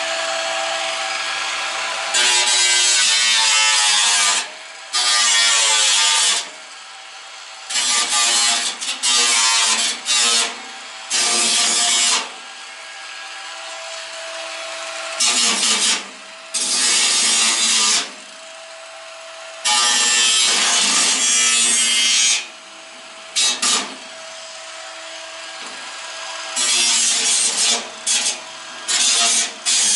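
Power tool run in repeated bursts of about one to three seconds each, a dozen or so starts and stops, with its pitch shifting within some bursts; a steady low hum carries on in the gaps.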